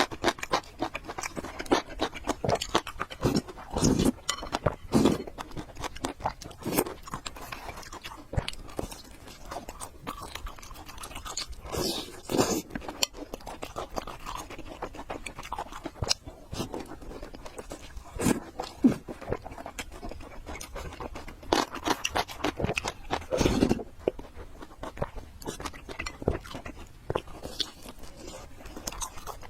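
Close-miked eating: chewing and slurping noodles, with irregular crunching and smacking sounds and the odd scrape of utensils.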